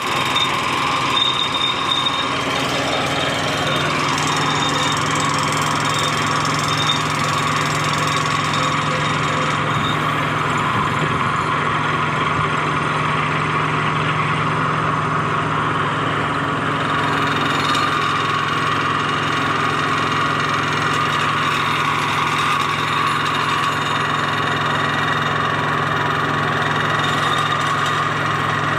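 Vibratory pile hammer driving a sheet pile into the ground: a loud, steady mechanical drone with a constant low hum under it.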